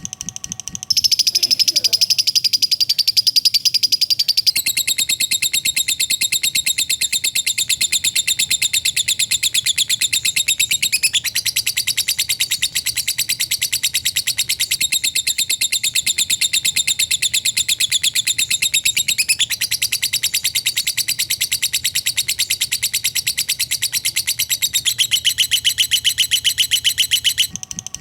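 Lovebird giving a long ngekek: a very fast, unbroken, high-pitched chattering trill that starts about a second in and stops shortly before the end. The pitch shifts slightly a few times along the way.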